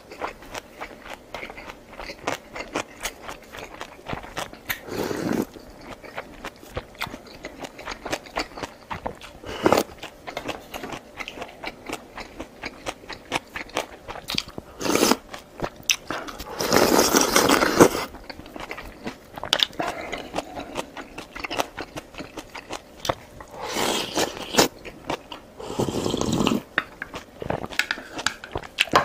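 Close-up eating sounds: a person chewing and crunching food with many small wet clicks and smacks, broken by a few louder rushing sounds, the longest about halfway through.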